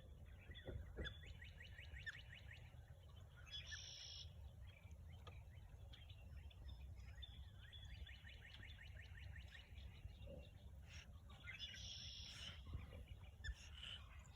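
A small songbird singing faintly, each song a fast run of high notes ending in a short, harsher burst, heard twice with a shorter fragment near the end, over a low steady rumble.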